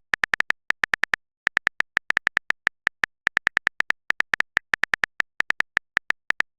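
Electronic typing sound effect: rapid short beeps, all on one high pitch, irregularly spaced at several a second, as text is typed out letter by letter in a chat. They stop just before the end.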